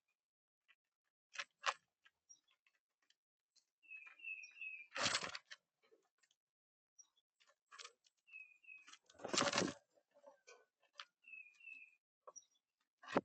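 Small songbird chirping in three short runs of quick high notes, among scattered light clicks and pecks. Three louder rushing thumps break in, the first about five seconds in, one near the middle and one at the very end.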